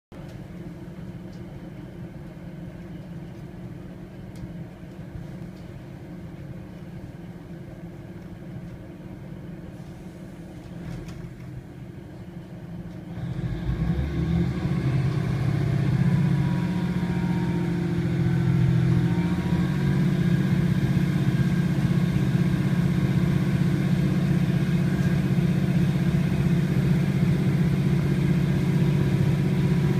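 Underfloor diesel engine of a Class 156 Sprinter diesel multiple unit, a Cummins six-cylinder, heard from inside the carriage: idling steadily at first, then about 13 seconds in opening up sharply to full power as the train pulls away, and running hard and loud from then on.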